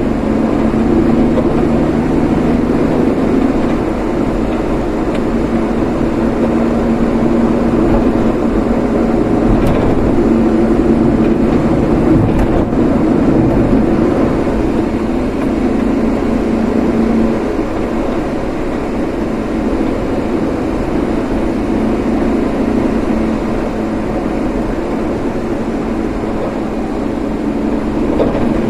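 Road vehicle being driven: steady engine and road noise, with the engine tone rising and falling gently as it goes.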